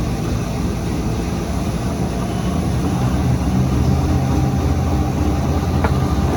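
Flexographic printing machine running steadily, a dense low hum with a faint click near the end.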